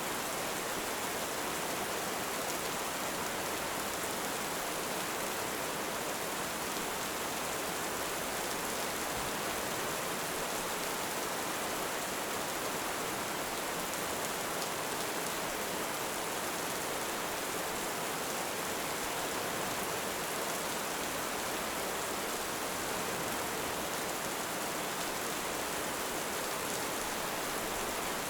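Heavy rain falling steadily, an even hiss that doesn't rise or fall.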